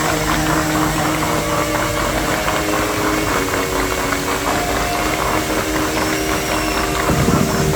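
Rushing, splashing water from a musical fountain's jets, with long held notes of music from the show's speakers sounding under it.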